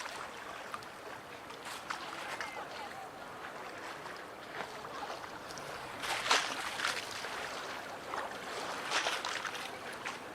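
Harbour water lapping and slapping against the quay edge in irregular splashes, the sharpest about six seconds in, over a steady wash of water.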